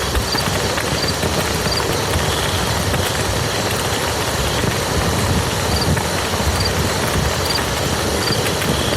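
Steady rain falling on a muddy field, an even hiss of many drops with no let-up.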